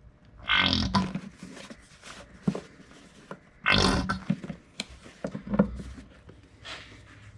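Hand-operated fluid pump pushing gear oil, with two loud bursts of sputtering, gurgling oil and air about three seconds apart and small clicks between them.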